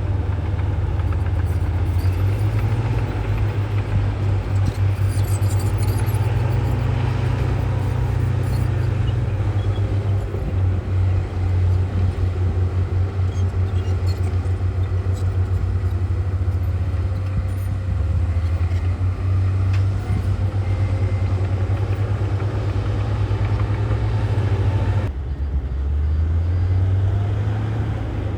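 Heavy earthmoving diesel engine running under changing load, with a strong low throb that rises and falls in level. The sound changes abruptly near the end.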